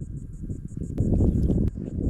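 Irregular low rumbling and rustling noise, with two sharp clicks about a second in and near the end, over faint insect chirping that pulses about five times a second.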